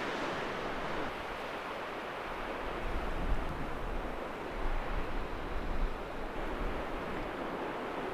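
Strong wind blowing, a steady rush with gusts buffeting the microphone in low rumbles.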